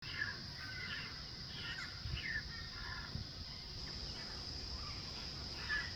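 Birds calling in short chirps and trills over a steady, high insect drone, in the bush.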